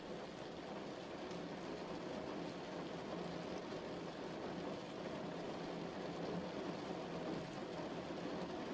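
Steady rain falling, an even hiss of drops on a surface with no breaks.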